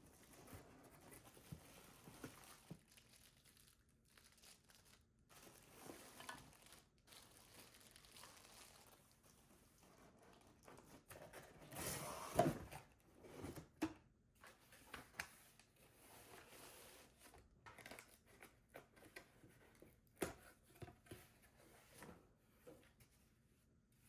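Quiet household handling noises: soft rustling and crinkling with scattered small clicks and knocks, busiest about halfway through.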